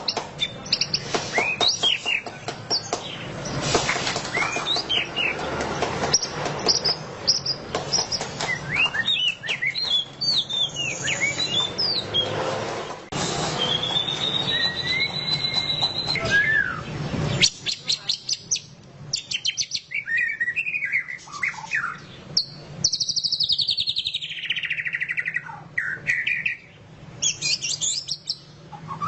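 White-rumped shama singing a varied, loud ngeriwik song: whistled notes, rising and falling glides and fast rattling trills. A hiss sits behind the first half and stops suddenly about halfway through.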